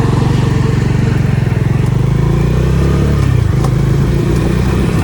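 Motorcycle engine running as the bike gets under way, a fast, even exhaust beat.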